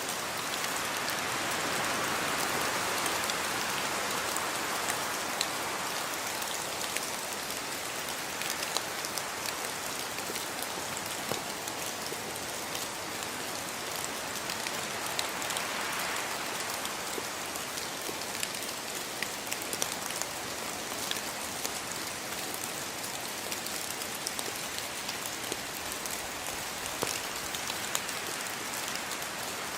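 Steady rainfall with many individual drops pattering on a surface.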